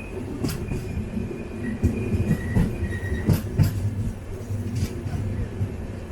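Express passenger train running on the rails: a steady rumble with irregular sharp knocks of the wheels over the track and a faint high squeal from the wheels.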